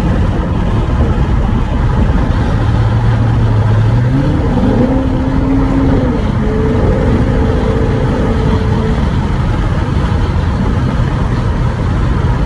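Heavy wind noise buffeting the microphone over the 2014 Corvette C7's 6.2-litre V8 engine. The engine note climbs in pitch about four seconds in and holds higher, as the car pulls harder.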